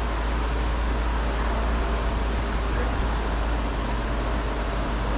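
Steady vehicle running noise: a constant deep rumble under an even hiss, holding level.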